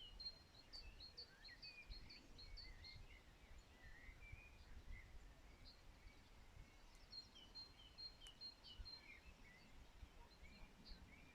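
Faint songbirds chirping and calling, with many short notes overlapping and a held high trilling note near the start and again past the middle, over a low uneven rumble.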